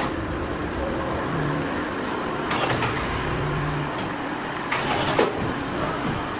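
A car running steadily, with two short bursts of hiss about two and a half and five seconds in.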